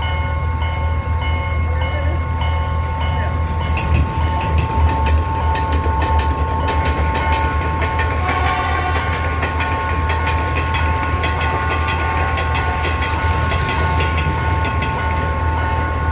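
Local train passing close by: its wheels clacking over the rail joints above a steady low rumble. A short beep repeats about twice a second for the first three seconds.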